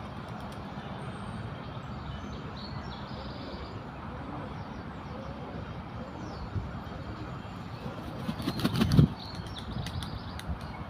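Muscovy drake flapping its wings in a brief flurry about eight and a half seconds in, over a steady background hiss.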